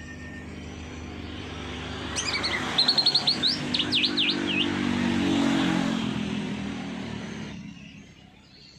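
A songbird gives a quick burst of sharp chirps and sweeping whistles lasting about two and a half seconds, starting a couple of seconds in. Beneath it a passing motor vehicle swells and fades away near the end.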